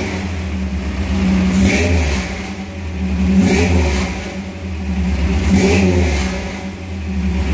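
Toyota 22R four-cylinder engine running through a Thrush welded muffler, its throttle blipped three times about two seconds apart, each rev rising and falling back to a rumbling idle.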